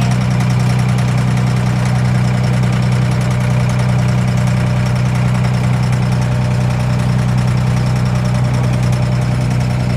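A boat's engine running steadily, a loud even low drone.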